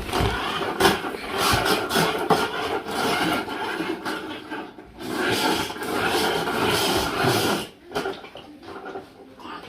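Plastic wheels of a child's ride-on toy vehicle rolling and scraping over a hard floor, in two long stretches with a brief break about five seconds in, quieter near the end.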